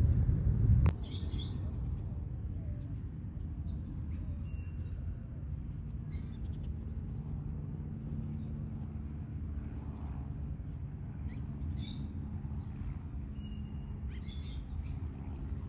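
Wild birds giving short, high chirps every few seconds over a steady low background rumble. Just under a second in, a louder low rumble stops abruptly with a sharp click.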